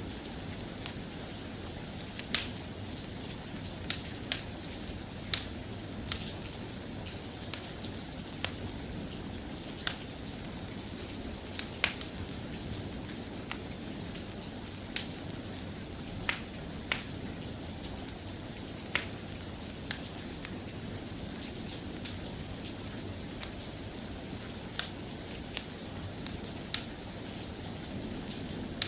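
Steady soft rain with sharp ticks and pops scattered irregularly, about one every second or two.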